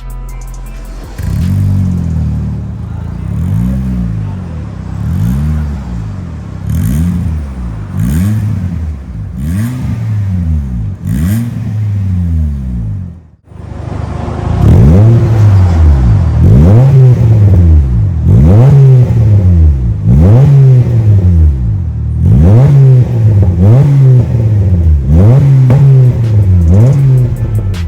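Honda Fit 1.5-litre four-cylinder engine revved over and over through an MS-R valved cat-back exhaust, each blip rising and falling within about a second. There is a brief break about 13 seconds in, and after it the blips come louder.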